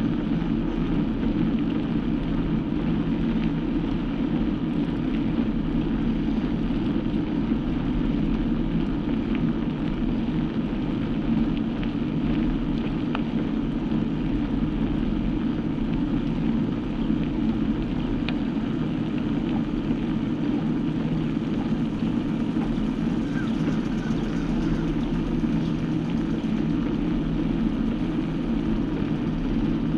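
Steady rumble of wind and road noise from riding, with no change in level throughout.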